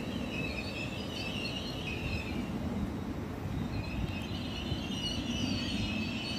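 Great Western Railway Class 800 train moving slowly along a station platform, a steady low rumble. High wavering squeaks come over it for the first two seconds and again from about four seconds in.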